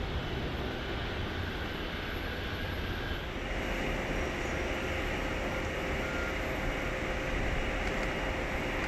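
Jet aircraft engine noise at an airport, heard as a steady rushing sound. About three seconds in it changes abruptly to a brighter, steady hiss with a faint held tone underneath.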